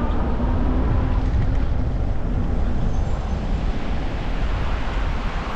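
Wind buffeting the microphone and the rolling rumble of a fat-tyre electric bike cruising at about 20 mph. A faint steady electric-motor hum sits underneath and fades out after about two seconds.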